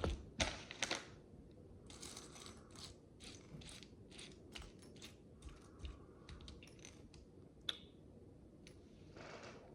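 Micro bricks being handled and pressed together: faint scattered small plastic clicks and short scrapes, with sharper clicks about half a second and a second in and another near eight seconds.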